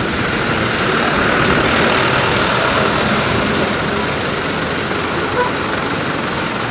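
Steady rushing noise of jet aircraft engines, swelling slightly about a second in, with a faint whine running through it.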